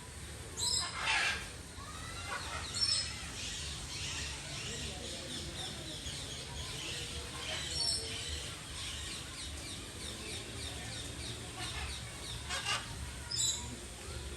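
Many small birds chirping and twittering constantly, with a few louder, harsher calls breaking in now and then.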